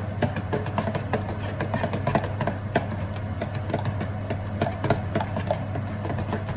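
A utensil scraping and clicking irregularly against a pan while eggs are stirred in it, over a steady low hum.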